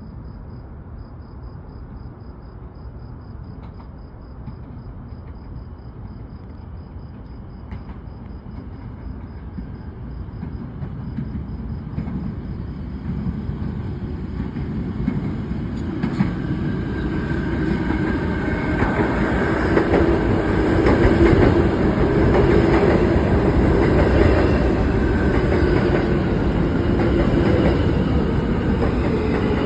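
A New York City Subway F train approaching and pulling into the station. The rumble of its wheels on the rails grows steadily louder over the first twenty seconds. From about halfway, steady high-pitched wheel and brake squeal rides over the rumble as the train slows.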